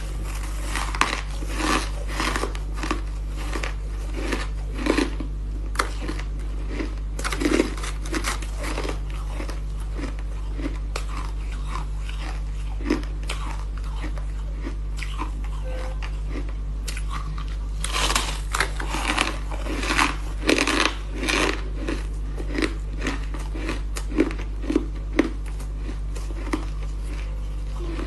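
Ice being bitten and chewed close to the microphone. There are clusters of sharp cracking crunches near the start, about a quarter of the way in and again about two-thirds through, with rhythmic chewing crunches between, over a steady low hum.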